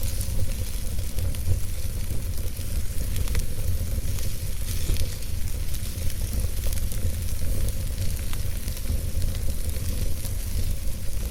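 Wood logs burning in a fireplace: scattered sharp crackles and pops over a steady hiss and a low rumble.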